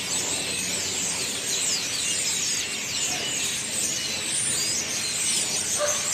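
A large flock of birds chirping all at once: a dense, continuous chorus of many high, quick chirps and short falling whistles overlapping one another.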